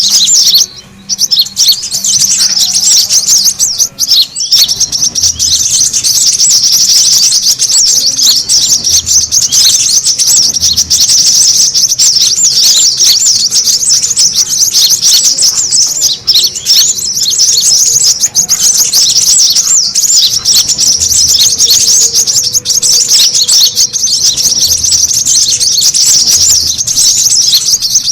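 Brown-throated sunbirds calling noisily in a dense, unbroken stream of high, rapid chirps, with a brief lull about a second in. This is a lure recording of excited 'ribut' calling.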